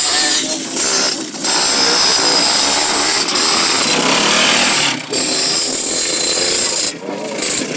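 65 cc two-stroke youth motocross bike engines revving hard, the loud buzzing note dipping briefly about a second in, again near five seconds and near seven seconds as the throttle comes off and goes back on.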